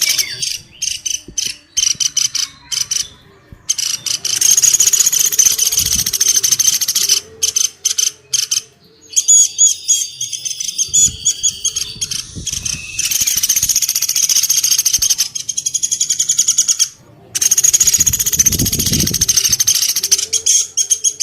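Woodpecker calls played as a lure: fast rattling trills of rapidly repeated high notes, coming in bursts with short breaks between them, and a stretch of clearer, steadier high notes near the middle.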